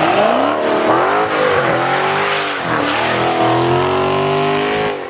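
Dodge Challenger Scat Pack's 6.4-litre 392 HEMI V8 revving hard in repeated rising and falling surges during donuts, over the screech of spinning rear tyres.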